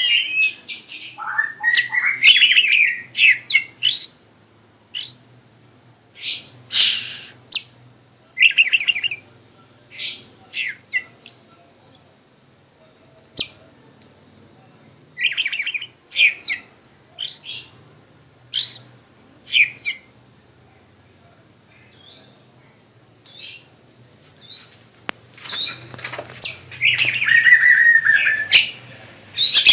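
A pet songbird singing in short sharp chirps and a few longer warbled phrases, with pauses of a few seconds between bursts.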